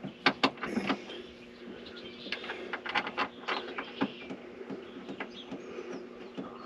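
Irregular sharp clicks and taps of screws and metal hardware being handled and started by hand, over a steady low hum.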